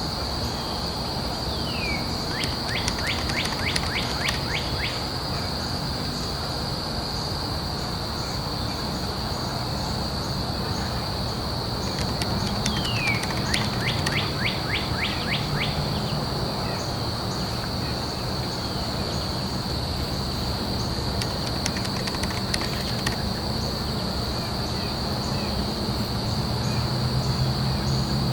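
Outdoor ambience: a steady high-pitched insect drone over a constant background hiss, with a bird singing the same phrase three times, about ten seconds apart. Each phrase is a short falling note followed by a rapid rattling trill.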